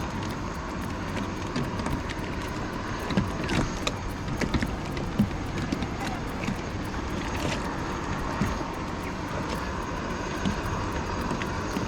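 Boat motor running steadily, with scattered light clicks and knocks over the drone.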